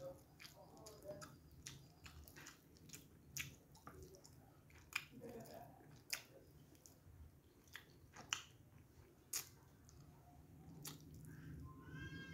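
Close-up mouth sounds of a person chewing a mouthful of rice: soft, irregular wet clicks and lip smacks, a few sharper ones now and then.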